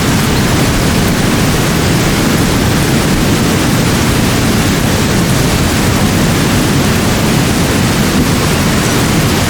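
Steady, unbroken rush of running water, like a waterfall or fast stream, strongest in the low range with no swells or breaks.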